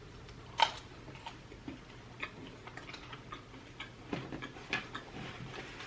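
Quiet eating sounds: a handful of soft, scattered clicks and taps, the clearest about half a second in.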